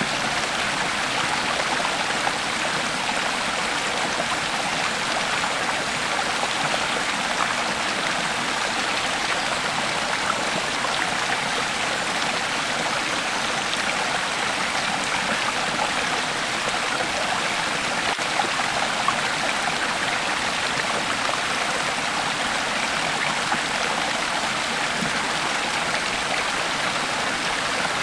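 Creek water flowing over rocks: a steady rushing and babbling, with occasional small splashes.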